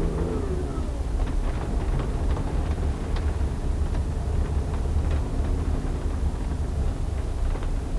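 A vehicle driving: a steady low rumble of engine and road noise, with scattered light ticks over it.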